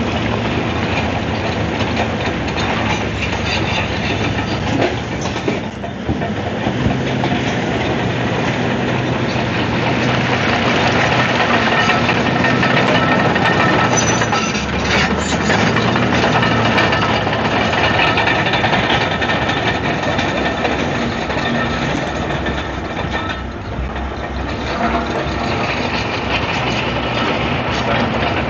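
Komatsu D155AX-7 crawler bulldozer working: its diesel engine running under changing load, with the steel tracks clanking and rattling throughout.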